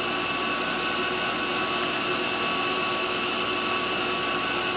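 Power drill running at a steady speed with a constant whine, spinning a cotton swab inside a small-engine carburetor's throttle-shaft bore to clean the grime out of it.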